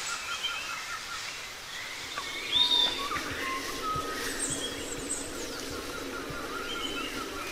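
Forest birds calling: a quick run of short repeated chirps, then assorted whistles and chirps, with one loud arched call about two and a half seconds in, over a steady low background hiss that comes up about two seconds in.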